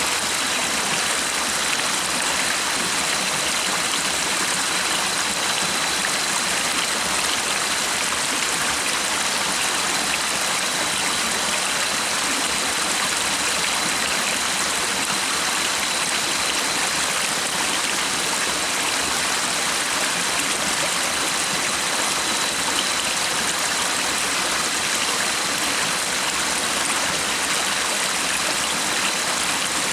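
A stream of running water rushing steadily and evenly, with a faint steady high tone underneath.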